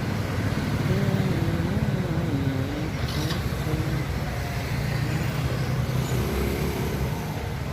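Street traffic noise: a steady low rumble of passing cars and motorbikes.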